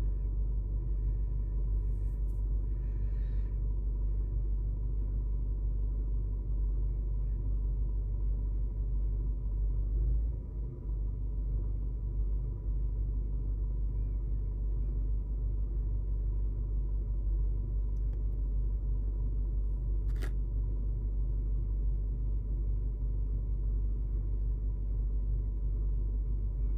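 Vauxhall Meriva's engine idling steadily, a low rumble heard inside the cabin, with a faint steady high whine over it. A single sharp click about twenty seconds in.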